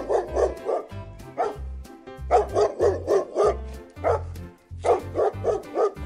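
A dog barking in quick runs of three or four barks, with single barks in between, over background music with a steady bass beat.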